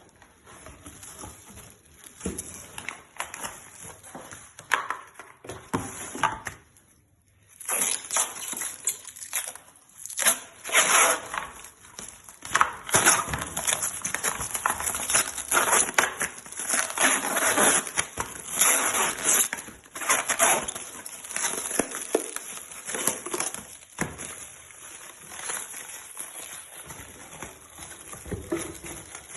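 Glass electric kettle heating water: uneven bubbling and crackling that grows louder after about seven seconds.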